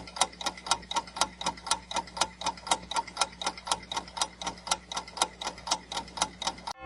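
Clock-ticking sound effect of a countdown timer: a steady run of sharp ticks, about four a second, counting down the answer time.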